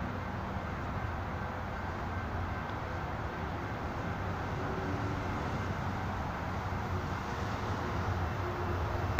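Low, steady rumble of an approaching train, growing slowly louder toward the end.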